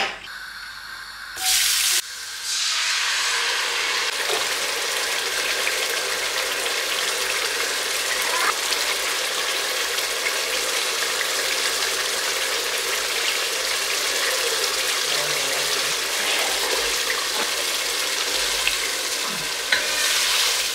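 Chopped tomatoes and tomato paste sizzling in hot oil in a cooking pot. A sudden loud burst about two seconds in as they go into the oil, then an even, steady sizzle with a few light taps of the stirring spoon.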